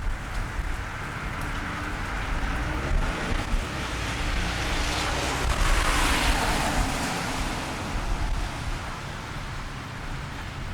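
A car passing on a wet street: its tyre hiss swells to a peak about halfway through and then fades away, over steady rainfall.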